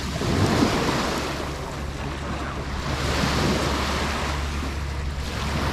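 Sea waves breaking and washing up the beach, swelling twice about three seconds apart, over a low steady rumble of wind on the microphone.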